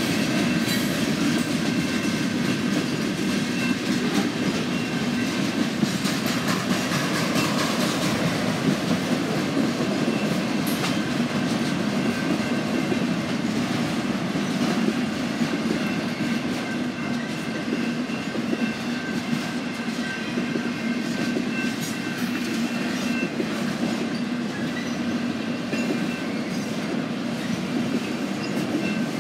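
Freight train cars rolling steadily past: a continuous rumble of wheels on rail, with the clickety-clack of wheels over rail joints.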